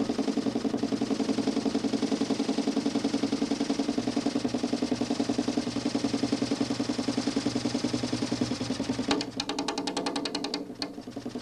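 DC motor spinning a large plywood Nipkow disc, running steadily with a rapid, even pulsing. About nine seconds in the sound dips and changes for a second or two, then settles back to the same steady running.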